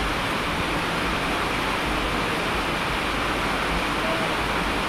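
Steady rain falling, a dense even hiss with no breaks or sudden sounds.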